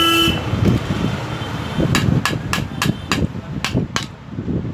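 A run of about seven sharp metallic taps, a few per second, from work on a jaw-type bearing puller as a stuck bearing is forced out. A vehicle horn sounds briefly at the very start, over a low background rumble.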